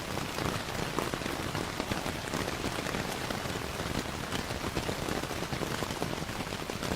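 Steady rainfall blended with a crackling fireplace: an even hiss of rain dotted with many small, sharp ticks and pops.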